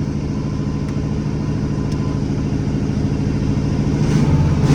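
Car engine running at idle, steady, growing louder and picking up near the end as it is revved.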